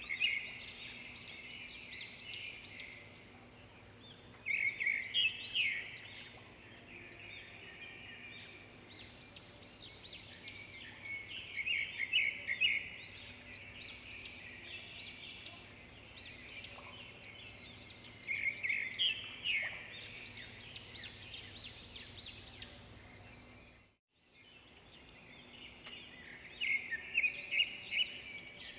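Songbirds singing: bursts of quick, high chirping phrases every few seconds over a faint steady hum. The sound cuts out completely for a moment about 24 seconds in.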